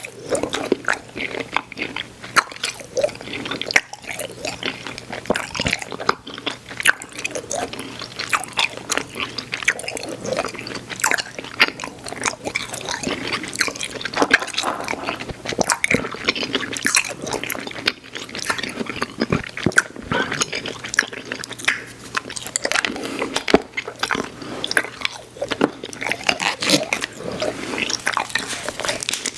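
Close-miked mouth sounds of chewing soft, chewy Airheads Xtremes sour candy: a steady, irregular run of smacks and sticky clicks.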